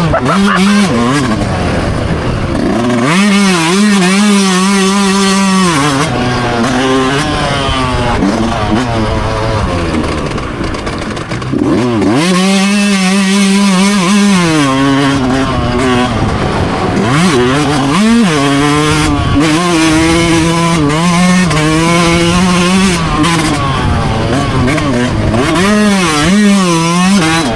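Dirt bike engine racing hard and loud, its pitch repeatedly climbing as it revs, holding, then dropping back with each shift or throttle-off.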